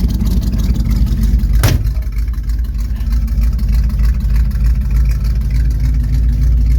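1971 Chevrolet C10 pickup's engine running just after a choked cold start in below-freezing cold, a steady deep pulsing. A single sharp crack cuts through it nearly two seconds in.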